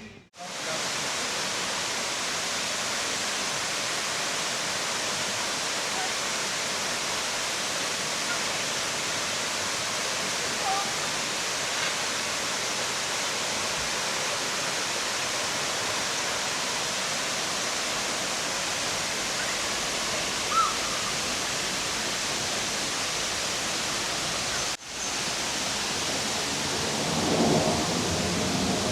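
Waterfall: a steady, even rush of falling water. It cuts out for a moment about 25 seconds in, and faint voices are heard near the end.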